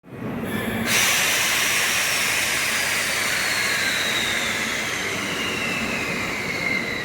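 Train running on rails with a loud hiss and a high whine that falls slowly in pitch, as of a train slowing down; the hiss rises sharply about a second in.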